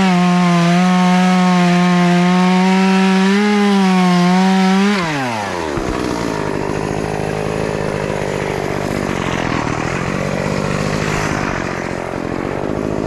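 Two-stroke chainsaw running at full throttle, then the throttle is released about five seconds in and the revs fall quickly to a rough idle, which continues to near the end.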